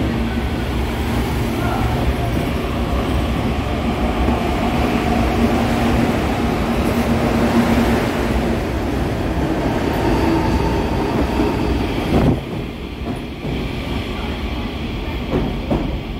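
CPTM electric commuter train running past close alongside the platform: a loud, steady rumble of wheels and running gear with a steady hum from the train for the first half. The sound drops away sharply about twelve seconds in as the last car clears.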